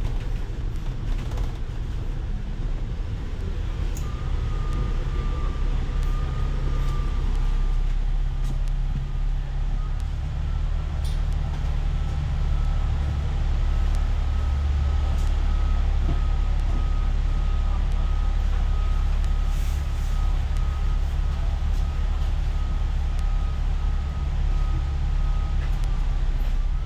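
A city bus in motion: a steady low engine and road rumble, with a thin, steady whine from the drivetrain that sets in a few seconds in and begins to rise in pitch near the end.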